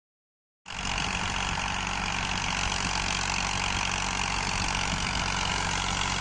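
Massey Ferguson tractor's diesel engine running at a steady speed, starting abruptly a little over half a second in.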